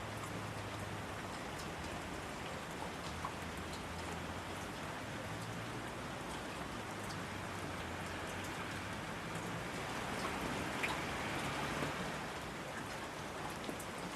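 Steady rain falling, an even hiss with scattered individual drops ticking through it; it swells slightly about ten seconds in.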